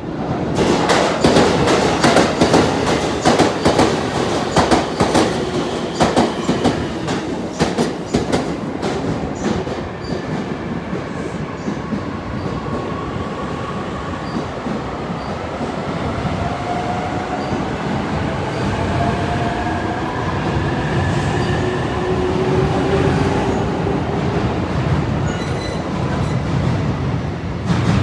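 Electric limited express train on the rails. A fast run of wheel clicks over rail joints and points comes first, then a steady rumble carrying a rising whine from the traction motors as the train gathers speed.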